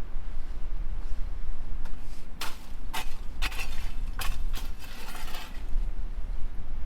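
Dishes and cooking utensils clinking and knocking together in a quick run of several sharp strikes, a few seconds long, over a steady low rumble.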